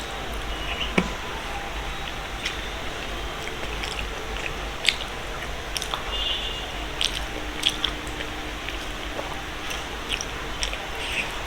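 Close-miked chewing and eating sounds: soft, wet mouth noises with many small irregular clicks.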